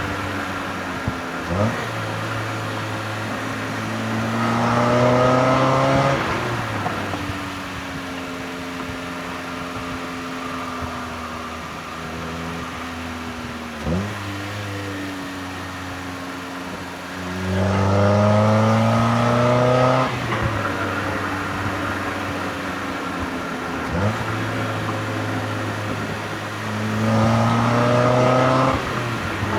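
NB Mazda MX-5 Miata four-cylinder engine and exhaust on a spirited drive. The engine pulls hard three times with its pitch climbing, and each pull ends abruptly. Between pulls it runs at a steadier, slowly falling pitch.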